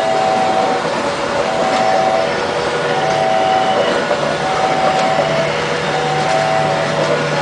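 Level-crossing warning alarm sounding a repeating two-tone chime, the pair coming round about every one and a half seconds, over the running noise of a departing train. A steady low hum joins about halfway through.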